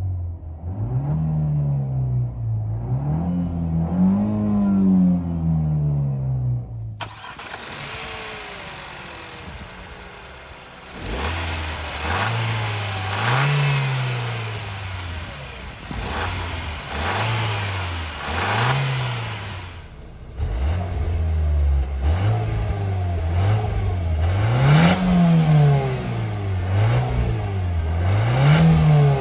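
Dacia Duster's 1.3 TCe turbocharged four-cylinder petrol engine revved again and again in short blips, each one rising in pitch and falling back, in a few separate takes with a quieter spell without revs in the first half.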